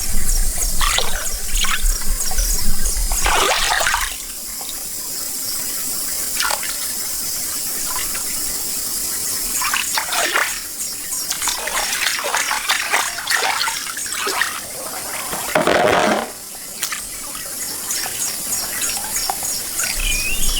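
Pond water sloshing and splashing irregularly as a person wades and rummages by hand through the muddy bottom, with a few louder splashes.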